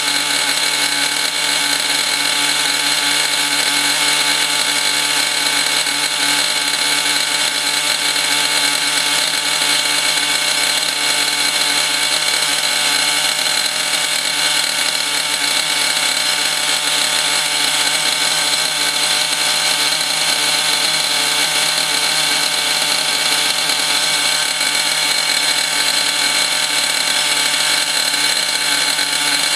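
O.S. Max glow-fuel two-stroke model engine running steadily with a high-pitched buzz, being broken in on a rich needle setting. It is mounted on a wooden crate that amplifies its sound.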